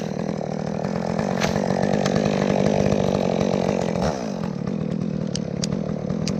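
Two-stroke chainsaw running at a steady high speed, dipping and picking back up about four seconds in, with a few sharp clicks near the end.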